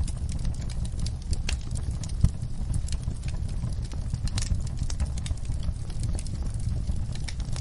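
Wood fire crackling in a fireplace: irregular sharp pops and snaps over a steady low rumble, with one louder pop a little after two seconds in.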